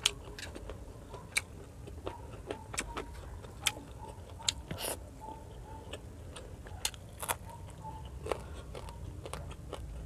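Close-up eating sounds: chewing with sharp mouth clicks and smacks, scattered about once a second, over a low steady hum.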